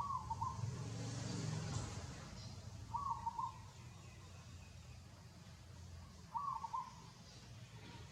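A short animal call, repeated three times about every three seconds, over a low rumble.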